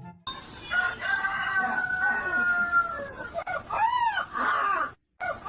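An animal's calls: one long, nearly level call lasting about two seconds, then two shorter calls that each rise and fall.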